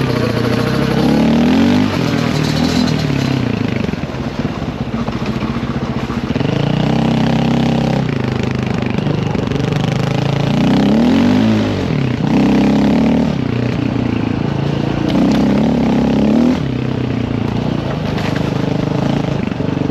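Dirt bike engine revving up and falling back again and again as it is ridden along a trail, its pitch climbing and dropping every second or two.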